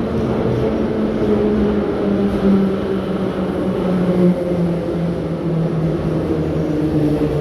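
81-717.6 metro train running with a rumble of wheels and a whine from the traction motors and gearing that falls steadily in pitch as the train slows toward a station.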